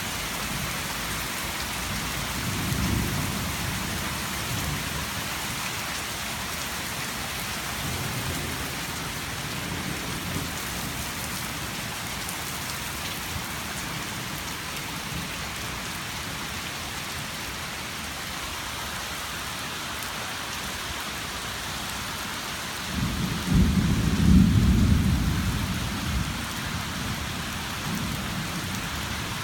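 Steady rain falling in a thunderstorm, with thunder rumbling low beneath it: a short rumble a few seconds in and a louder, longer one near the end lasting about three seconds.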